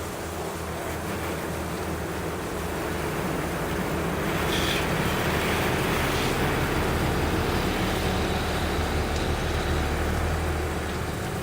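Garden hose spraying water over a car, rinsing off the soap suds: a steady rush of water that grows louder a few seconds in and eases near the end.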